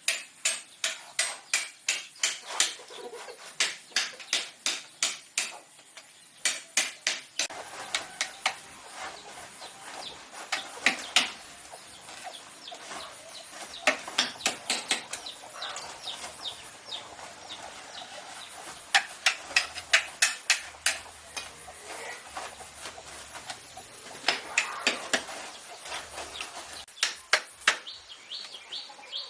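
Bursts of rapid, sharp tapping or chopping strokes, about two to four a second, with short pauses between the runs.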